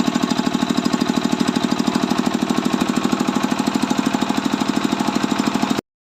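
Bharat stationary diesel engine running under load, driving a rice polisher: a fast, even chugging beat with a steady whirr over it. The sound cuts off suddenly near the end.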